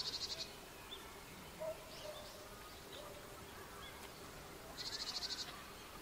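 Japanese tit (Parus minor) giving two harsh, buzzy calls, each a rapid run of pulses lasting well under a second. The first comes at the very start and the second about five seconds in. Faint thin call notes fall in between.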